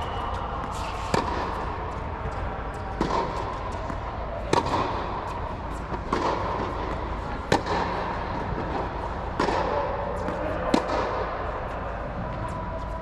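Tennis balls struck by rackets in a rally drill: sharp pops about every second and a half, with fainter bounce clicks between.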